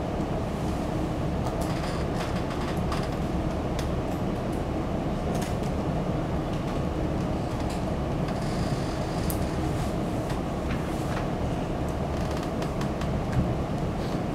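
Steady low room rumble with a faint hum, with faint, irregular clicks of calculator keys being pressed as an integral is edited.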